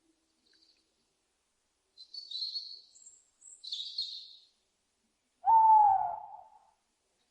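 Two short high-pitched calls, then, about five and a half seconds in, one loud owl hoot lasting about a second and falling slightly in pitch.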